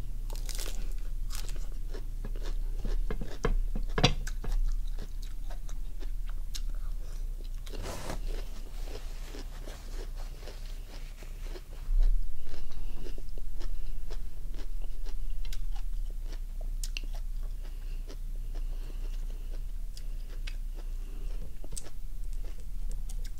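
Close-up crunching and chewing of mouthfuls of raw lime-cured crab, with many small cracks and clicks. There is a sharper snap about four seconds in and a louder stretch of chewing a little past the middle.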